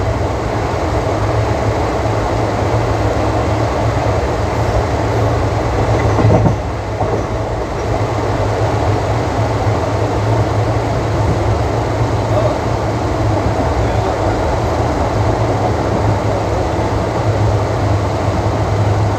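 ICF passenger coach running at speed on Indian Railways track: a steady, loud rumble and rattle of wheels on rails, with a single sharp knock about six and a half seconds in.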